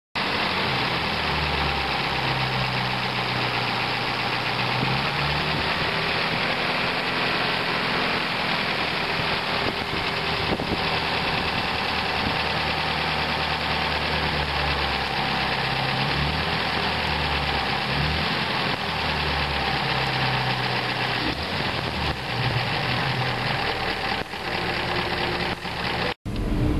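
1937 Super 8 eight-cylinder engine idling steadily, heard up close from the engine bay.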